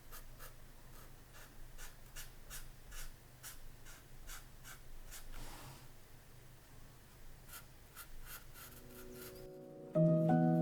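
Pen nib scratching on paper in short, irregular strokes, a few per second, with one longer stroke about halfway through. The scratching stops near the end and soft piano-like music comes in.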